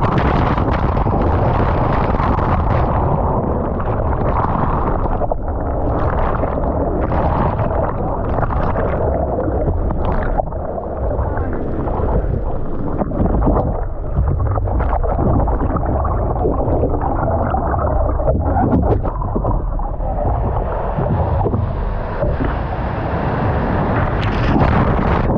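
Water sloshing and splashing around a camera in the surf, with wind rumbling on the microphone, in irregular surges.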